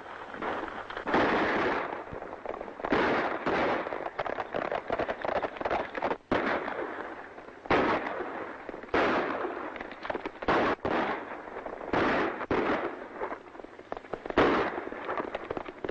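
A gunfight: a string of about a dozen gunshots fired at irregular intervals, each with a trailing echo, on an old film soundtrack.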